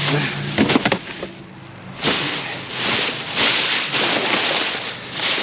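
Rummaging through trash and recyclables: a few sharp clattering knocks, then rustling and shuffling of loose items.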